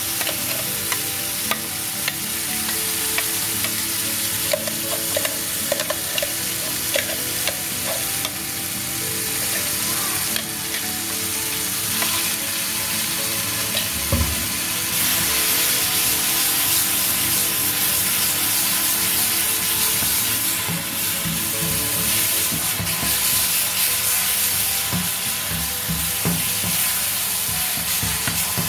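Blended masala paste frying in hot ghee in a wok, a continuous sizzle with small crackling pops through the first half. There is a dull knock about halfway. Near the end a wooden spatula stirs the paste around the pan.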